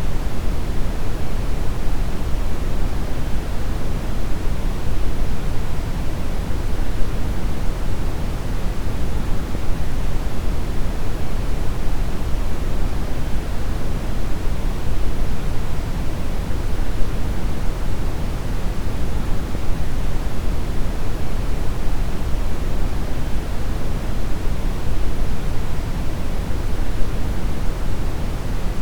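Brown noise: a steady, deep rushing hiss, strongest in the bass and fading toward the treble, unchanging throughout.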